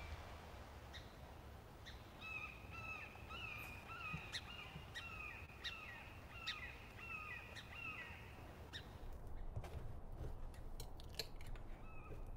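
Birdsong ambience: a bird gives a quick run of short repeated calls, about two or three a second, from about two seconds in until past eight seconds, then again near the end, with fainter chirps of other birds and a low steady hum underneath.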